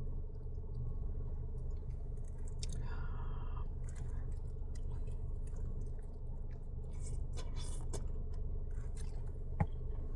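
A person chewing jerk chicken, with small wet clicks and crunches, over a steady low hum. A brief higher-pitched sound comes about three seconds in, and a sharp click near the end.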